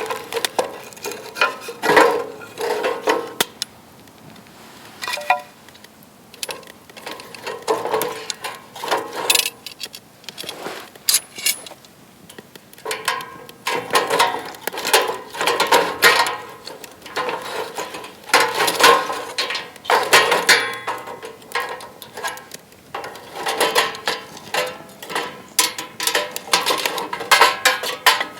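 Metal parts of a fire pit clinking and knocking together as they are handled, in irregular clusters of sharp taps with brief ringing.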